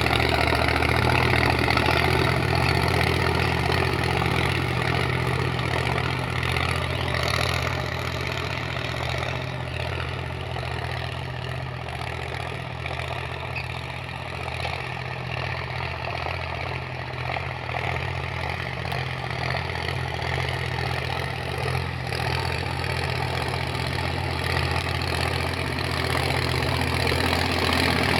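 Sonalika Tiger 745 III 4x4 tractor's diesel engine running steadily at a low, even speed. It gets somewhat quieter through the middle and louder again near the end.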